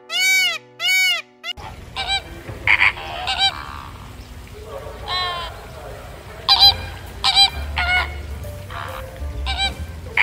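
Two loud arching calls from an Indian peacock, then a flock of flamingos honking in many short, irregular goose-like calls.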